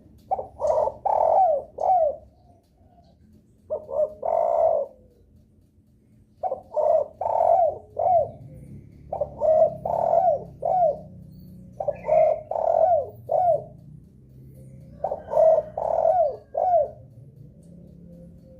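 Spotted dove (derkuku) cooing: about six phrases of three or four coos each, with short pauses between them.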